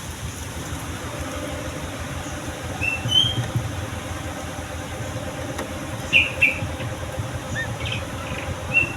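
Yellow-vented bulbul giving short whistled notes: a couple about three seconds in, two about six seconds in and one more near the end, over a steady low rumble.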